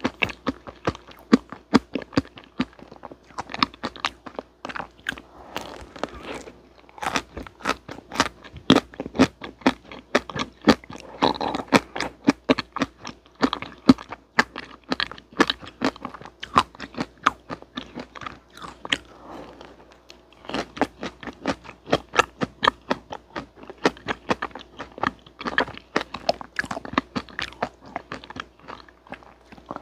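Bites and chewing of frozen vanilla ice cream cake, a dense run of sharp crunches and crackles with a couple of brief pauses.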